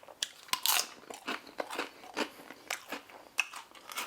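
A person taking a crunchy bite of food and chewing it. The loudest crunch comes in the first second, followed by a run of short, irregular chewing crunches.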